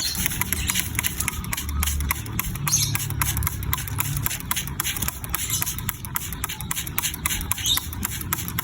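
Small cage birds bathing, a dense run of quick splashes and wing-flutter rustles in water.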